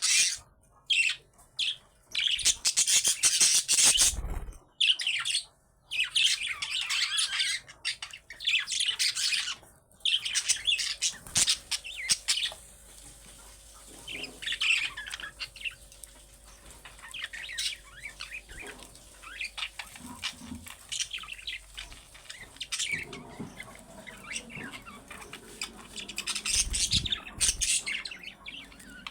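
Budgerigars chirping, chattering and squawking in quick high-pitched runs. The chatter is dense and loud for roughly the first twelve seconds, thins out through the middle, then picks up again near the end.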